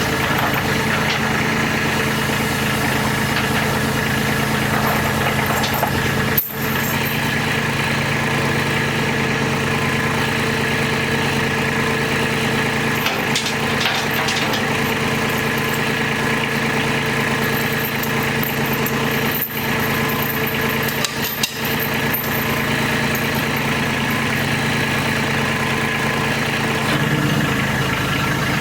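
Tractor engine running steadily, with brief breaks about six seconds in and twice around twenty seconds in.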